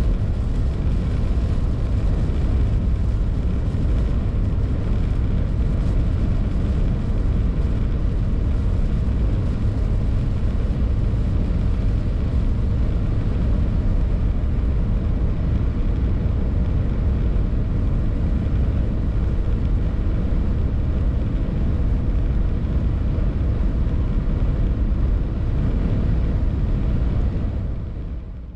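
A Mitsubishi L200's 2.2-litre DI-D four-cylinder turbodiesel, with wind and tyre noise, as the pickup drives at speed. It is heard from inside the cabin as a steady, low-heavy rush that fades out near the end.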